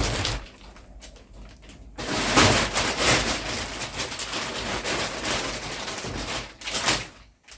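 Plastic wrapping of a vacuum-packed memory foam mattress crackling and rustling as the compressed mattress expands and the plastic is handled, loudest from about two seconds in and stopping just before the end.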